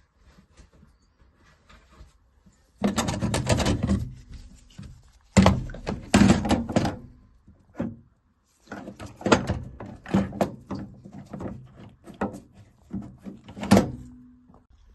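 Repeated clunks, knocks and scraping as parts and tools are handled inside a gas boiler during a diverter valve replacement, coming in several bursts with short pauses between them.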